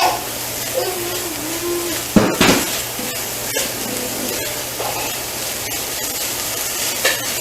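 Onions and garlic sizzling steadily in a frying pan, with a loud knock of a utensil or pan about two seconds in and a few lighter clicks.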